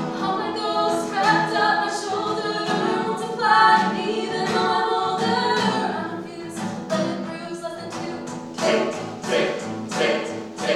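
Music: several voices singing together in harmony over an accompaniment that keeps a steady rhythmic stroke.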